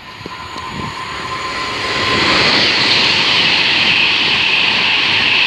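Class 390 Pendolino electric train passing through at speed: a rushing roar of wheels and air that builds over about two seconds and then holds steady and loud.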